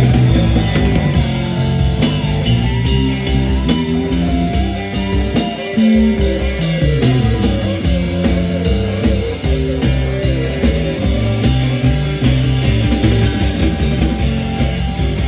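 Rock band playing an instrumental passage with guitar, bass and drums, at a steady beat.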